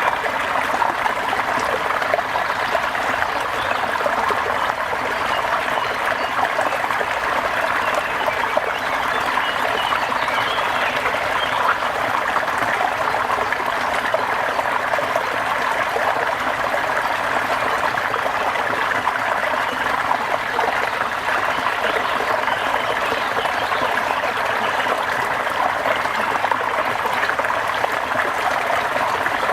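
Steady rain falling: a dense, unbroken patter of drops.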